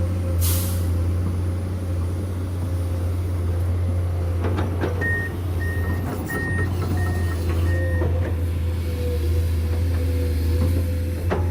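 Heavy diesel construction machinery running steadily with a deep engine drone, with a few metal knocks. About halfway through, a reversing alarm sounds five short high beeps in a row.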